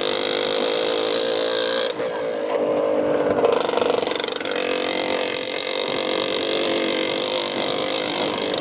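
Motorcycle engine running steadily, briefly a little louder about three and a half seconds in.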